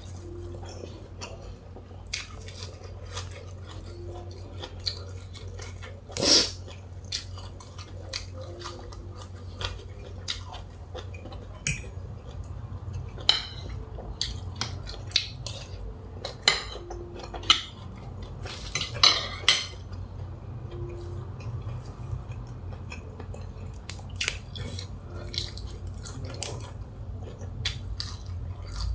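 Utensils clinking and scraping against a plate at irregular moments, with chewing in between, over a steady low hum.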